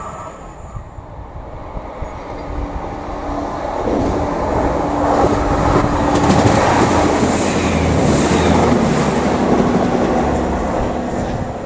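A diesel multiple unit passenger train approaching and passing close at speed: engine note and rumbling wheels over the rail joints build to a peak, with a steady tone that drops in pitch as the train goes by, then fade near the end.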